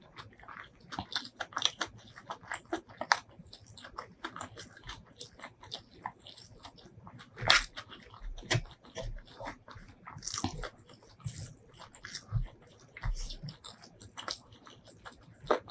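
Close-miked chewing of a mouthful of spicy chicken biryani: a steady run of wet mouth clicks and smacks with occasional crunches, and one louder smack about halfway through.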